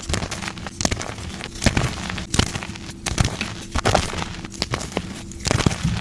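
Soft gym chalk blocks being crushed, giving a run of dry crunches and crackles at irregular intervals, with a louder crunch every half-second to second.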